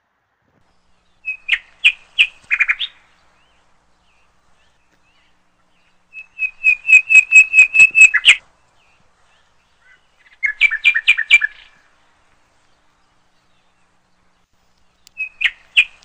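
A songbird chirping in short phrases of rapid, high-pitched notes, each phrase lasting a second or two and repeating every few seconds, with silence between them.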